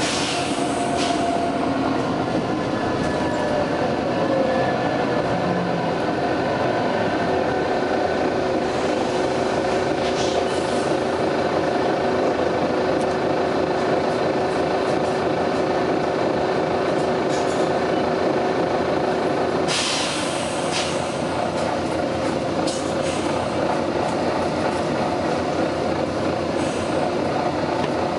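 Volvo B9TL double-decker bus running, its nine-litre six-cylinder diesel and drivetrain giving a steady drone with a constant whine, broken by several short hisses of released air from the air brakes or suspension, the strongest about two-thirds of the way through.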